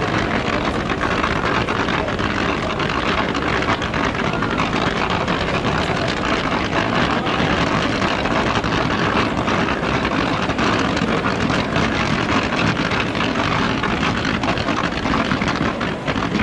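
Fireworks display firing a dense barrage: the aerial shell bursts overlap so closely that they run together into one steady rumble without a break.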